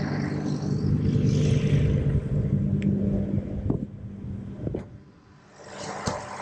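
A vehicle's engine running with a steady low rumble and hum, fading away about five seconds in, with a few faint clicks.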